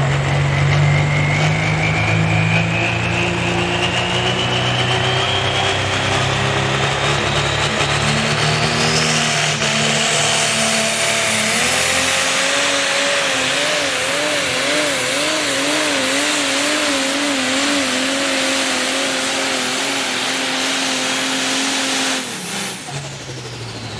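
Light Pro Stock pulling tractor's engine running flat out down the track, loud and steady, with a high whine that climbs steadily over the first ten seconds. Midway the engine note starts to waver up and down about one and a half times a second, and the sound drops off suddenly near the end as the pull ends.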